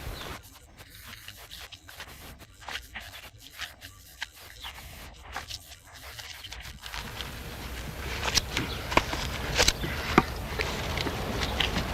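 Scraping and rubbing with scattered sharp clicks. It turns louder and busier about seven seconds in.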